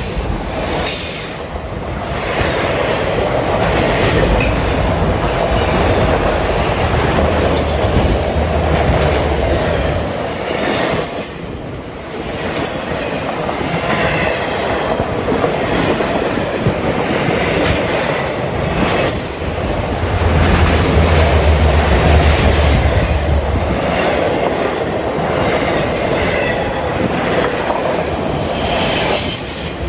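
Autorack freight cars rolling past close by: a steady rumble of steel wheels on rail, with a clickety-clack of the wheels passing over rail joints.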